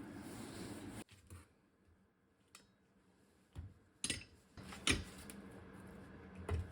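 A few scattered, short metallic clinks and knocks, typical of tools and steel parts being handled and set down during a subframe assembly, with near silence between them.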